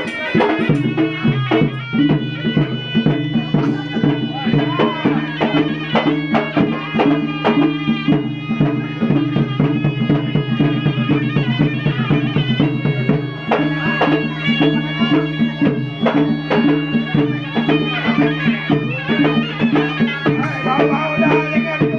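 Gendang silat ensemble playing: a nasal serunai oboe melody over a steady low drone, driven by quick strokes of the gendang drums.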